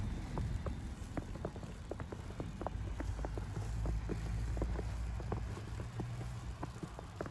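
Footsteps on snow, short sharp steps at about three a second, over a low steady rumble.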